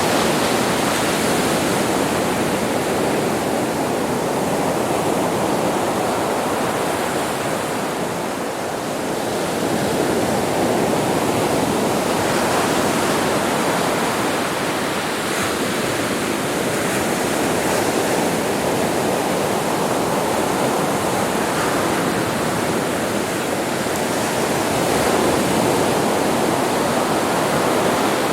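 Sea waves breaking and washing onto a beach: a continuous rush of surf that swells and eases slowly, dipping briefly about eight seconds in.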